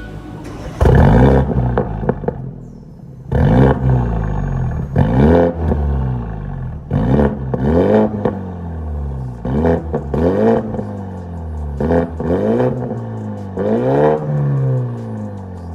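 BMW 420i's B48 2.0-litre turbo four-cylinder revved repeatedly through an MS-R valved cat-back exhaust: a string of sharp throttle blips, each rising and falling in pitch, about every one to two seconds.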